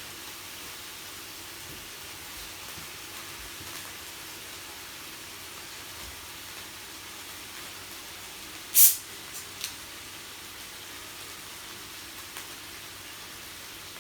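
Meat sizzling on a yakiniku grill, a steady hiss, with one sudden sharp crack about nine seconds in and two small clicks just after.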